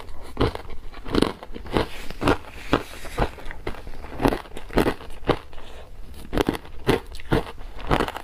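Crunchy ice being chewed close to the microphone, a steady run of sharp crunches about two a second.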